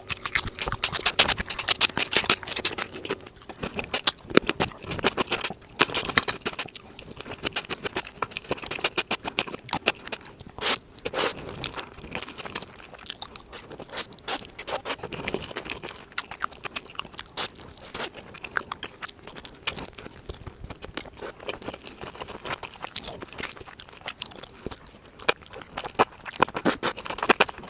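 Close-miked chewing and biting of Korean food: dense, crisp crunching with many small crackles, the loudest crunches in the first few seconds.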